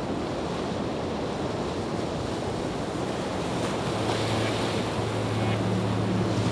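A steady rushing noise, like surf or wind, slowly growing louder. A low steady music drone comes in about four seconds in.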